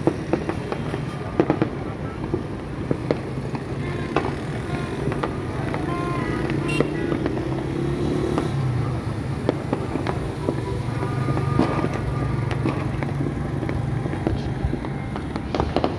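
Fireworks and firecrackers going off, many scattered sharp pops and bangs over a steady low drone.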